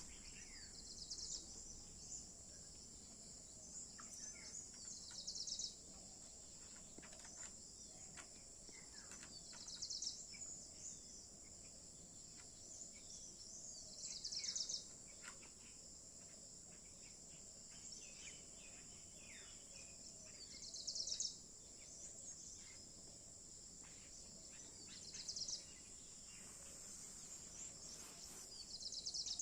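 Morning birdsong over a steady high-pitched insect drone: one bird repeats a short phrase of rapid chirps every four to five seconds, with fainter scattered chirps from other birds between.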